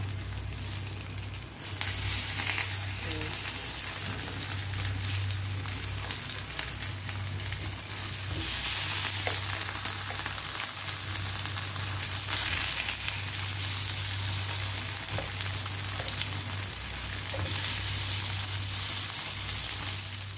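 String bean pancakes sizzling steadily as they fry in a nonstick pan, a dense crackling hiss that grows louder about two seconds in.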